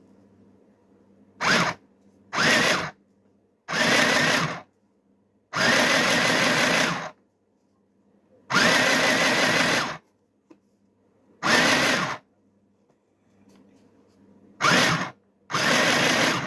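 Mini sewing machine stitching in short runs, started and stopped eight times, each run lasting from a fraction of a second to about a second and a half.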